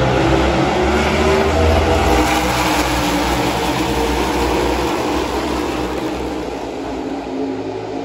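A pack of NASCAR race vehicles' V8 engines passing at speed, several engine notes overlapping and shifting in pitch, loudest in the first couple of seconds and slowly fading as the pack moves away.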